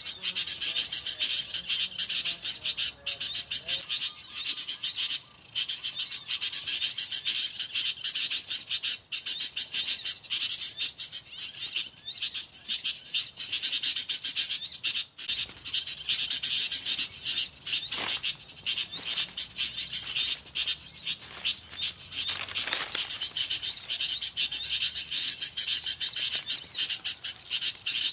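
Many small birds chirping rapidly and without pause, over a steady high-pitched trill.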